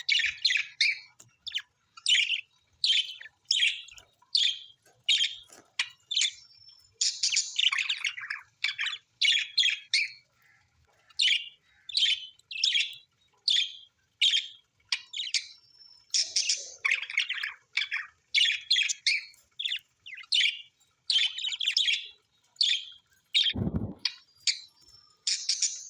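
Parrots chirping in a quick, steady series of short high calls, roughly two a second, mixed with a few longer scratchy squawks. A single dull thump comes near the end.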